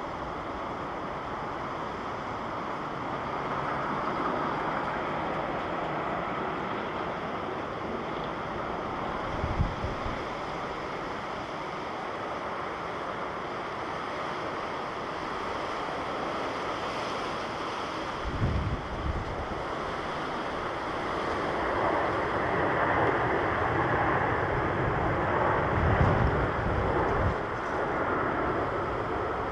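Jet noise from an All Nippon Airways airliner: a steady broad rush that grows louder over the last third as the aircraft comes closer. Wind gusts buffet the microphone with low thumps three times.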